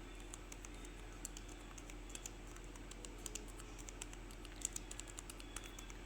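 Faint, irregular run of light clicks, several a second, like typing on a computer keyboard, with a brief louder cluster about two-thirds of the way through, over a steady low background hum.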